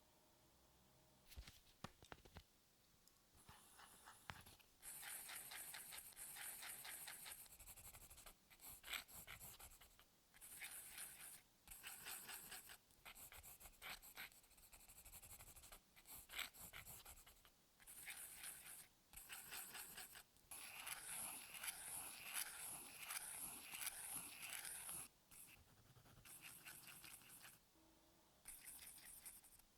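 Drawing strokes on paper: a soft, scratchy sketching sound in runs of one to a few seconds with short pauses between, and a longer unbroken run of strokes past the middle.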